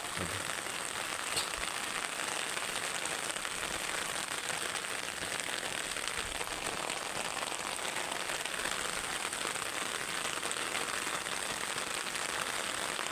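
Rain falling steadily, an even hiss without let-up.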